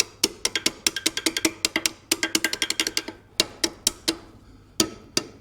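Hammer rapidly tapping steel, several sharp ringing strikes a second, chipping welding flux off a fresh weld on a gate hinge; the strikes pause briefly about two seconds in and thin to a few single taps near the end.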